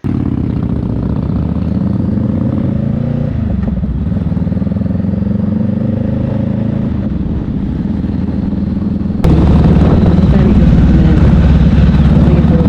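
Motorcycle engine running steadily. About nine seconds in, it cuts abruptly to a louder engine sound.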